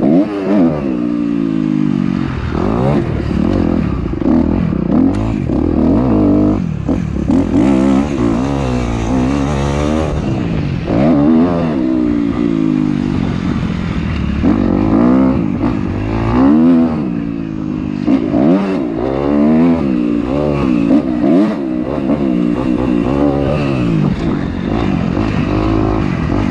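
Dirt bike engine being ridden, its pitch rising and falling over and over as the throttle opens and closes and the gears change.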